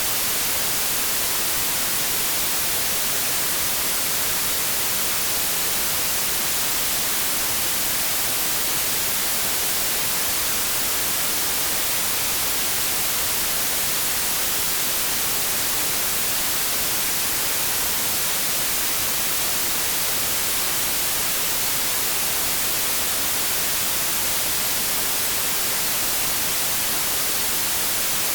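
Steady white noise: an even hiss, brightest in the treble, with no change in level.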